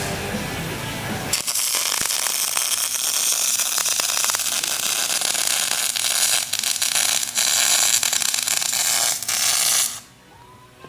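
Welding arc, likely a MIG welder, crackling and sizzling in one steady bead of about eight seconds while brackets are welded onto an axle housing. It starts abruptly after a second or so and cuts off abruptly near the end.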